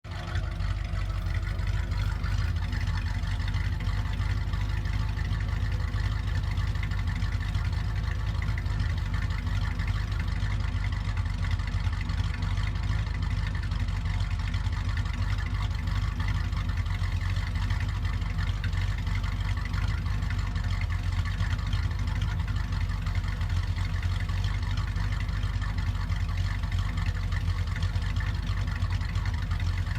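1965 Chevrolet Impala's 283 small-block V8 running steadily through a Parts Place exhaust system, with a deep, even exhaust note and no revving.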